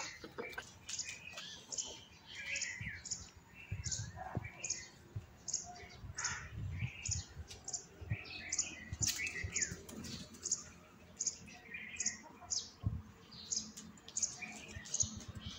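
Small birds chirping: short, high chirps repeating about twice a second, with other lower calls mixed in.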